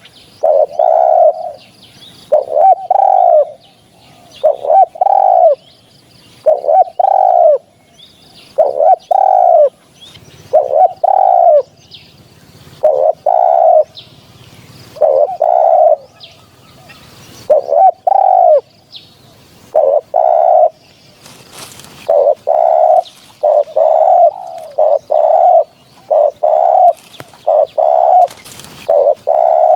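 Spotted dove cooing, repeating a short phrase of a few low coos about every two seconds.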